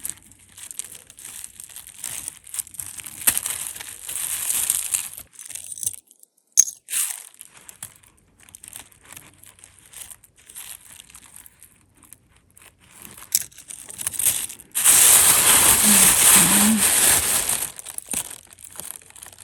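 Plastic crinkling and rustling with scattered small clicks and clinks as tangled jewelry is handled; the loudest, longest rustle comes near the end.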